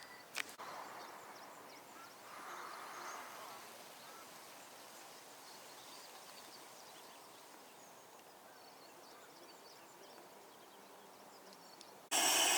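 Faint outdoor ambience with a few sharp clicks at the start. Just before the end, a loud, steady hissing noise cuts in abruptly.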